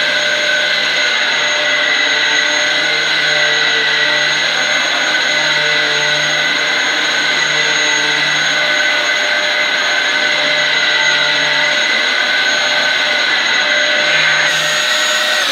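Dyson DC07 upright vacuum cleaner running steadily on carpet, a loud rushing hiss with a high steady motor whine. Right at the end the whine starts to fall away as the motor winds down.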